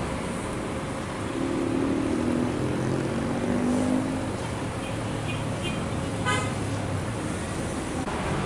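A vehicle horn sounds for about three seconds, starting a little over a second in, over a steady engine running and traffic noise. A short sharp click comes near the end.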